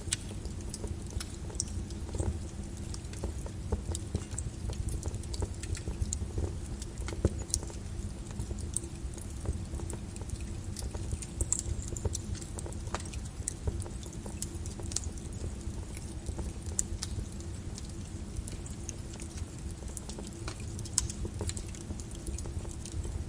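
Flowing lava: a steady low rumble with many scattered sharp crackles and ticks, the sound of a lava crust cracking and shifting as it moves.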